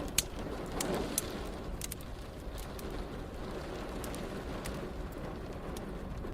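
Wood fire in a fireplace crackling, with scattered sharp pops, over a steady low hiss and rumble of rain.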